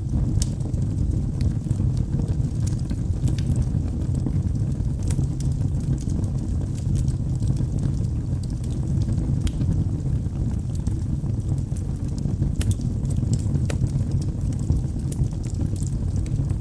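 Wood fire burning in a fireplace: a steady low rumble of flame with scattered sharp crackles and pops from the logs.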